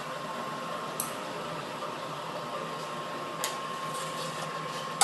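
Lockformer seam-rolling machine running steadily with a hum and a high whine, with a sharp metallic click about a second in, another about three and a half seconds in, and a louder one at the very end.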